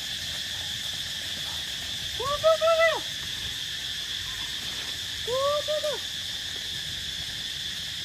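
A bird calling in two short runs of clear, pitched notes, about two seconds in and again about five seconds in, over a steady high insect drone.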